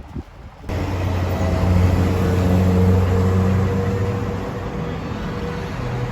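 A motor vehicle running, a steady engine hum under road noise, cutting in abruptly under a second in after a few wind thumps on the microphone.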